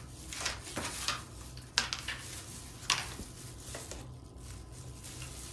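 Several short, sharp clinks and knocks of kitchenware being handled, over a low steady hum.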